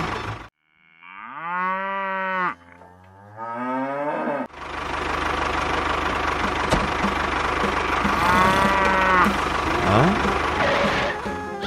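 Cows mooing: two long moos one after the other, then a steady engine-like running noise starts, with another moo over it about eight seconds in.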